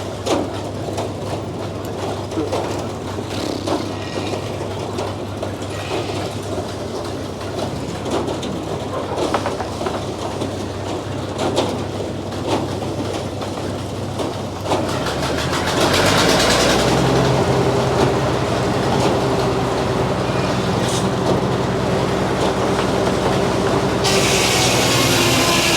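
Frick sawmill running: clacks and knocks over a steady machine hum, then about fifteen seconds in it gets louder with a new steady drone, and a hiss joins near the end.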